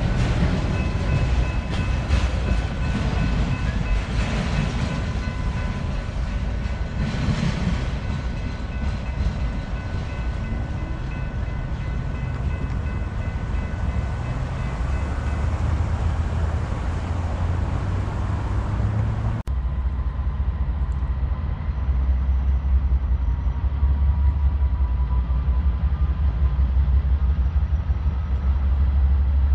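Freight train cars rolling past, with a steady rumble of wheels on rail and thin squealing tones from the wheels. After a sudden break, a deeper steady rumble of an approaching diesel locomotive takes over.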